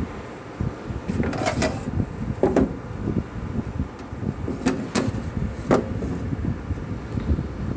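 Several sharp knocks and clatters, about five, spread over a steady low rumble.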